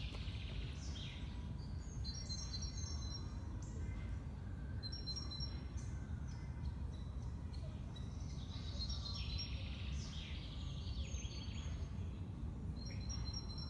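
Small birds chirping in short, high calls and trills every few seconds over a steady low background rumble.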